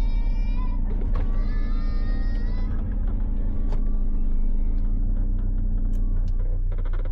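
Turbocharged Subaru BRZ's flat-four engine idling steadily at the start line. Twice in the first three seconds a high, wavering pitched sound plays over it.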